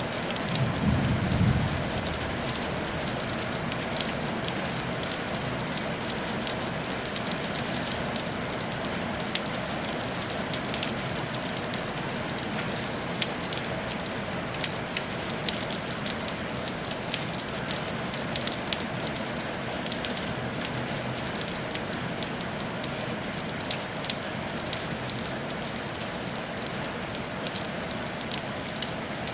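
Steady rain falling on a tile roof: a constant hiss dense with the fine patter of individual drops. A brief low rumble rises above it about a second in.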